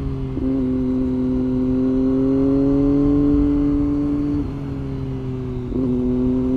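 Triumph Street Triple's inline three-cylinder engine pulling under way. Its note drops at a gear change about half a second in, then climbs slowly as the bike accelerates, and breaks twice more near the end at further shifts.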